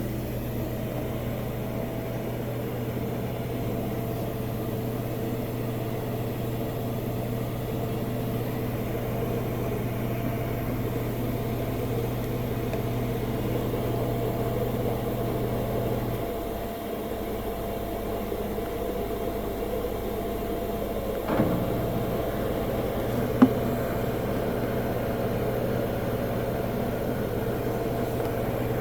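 Washing machine running in its rinse stage while fabric softener dispenses: a steady machine hum. The lowest part of the hum stops for about five seconds past the middle, then comes back with a click, and another short click follows a couple of seconds later.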